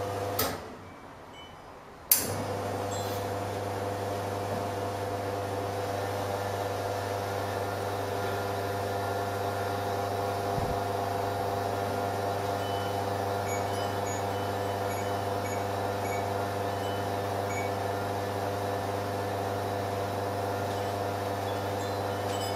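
Commercial espresso machine's pump running with a steady hum. It stops for under two seconds as the pre-infusion pause, then clicks back on and runs steadily through the shot extraction while the group's dose volume is being programmed.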